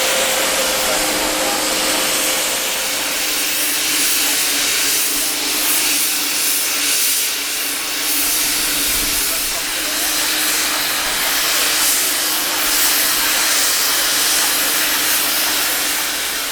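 Steam escaping from a steam engine in a steady, loud hiss, with a faint steady hum underneath.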